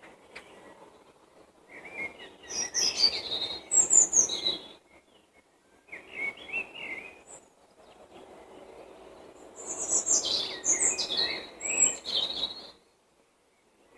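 Songbirds singing in the countryside in spring: three bouts of quick, varied high-pitched phrases, about two seconds in, around six seconds in and from about nine and a half seconds in, with short pauses between.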